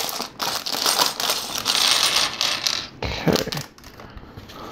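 Small plastic LEGO pieces clattering and clicking against each other as a bag of parts is handled and emptied, busy for about three seconds and then only a few scattered clicks.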